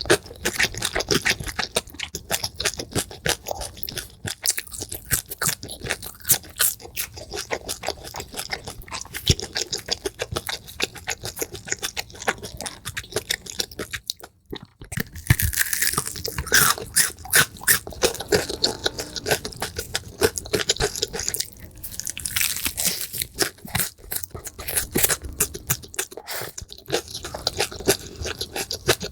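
Close-miked, sped-up chewing and crunching of food: rapid, dense crackly bites and mouth sounds. There is a brief break about halfway through, where one clip gives way to the next.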